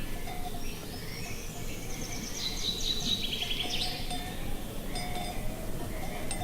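A songbird singing one phrase of quick high notes that ends in a fast trill, over a steady low wind rumble, with a few short chirps around it.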